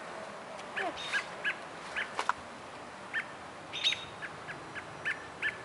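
Small birds chirping: a run of short, high, evenly pitched chirps, several a second at times, with uneven gaps between them.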